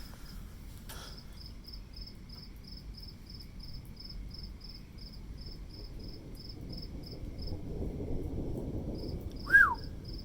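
Cricket chirping in steady, evenly spaced high pulses, about three to four a second, over a low rumble that swells near the end. A short, loud falling squeak cuts in just before the end.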